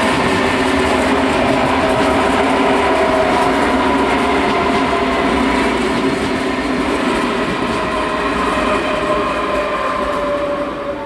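DB Class 423 S-Bahn electric multiple unit passing a level crossing at close range: wheel and rail noise with a steady whine from the traction equipment that slowly falls in pitch. It fades near the end as the train moves off.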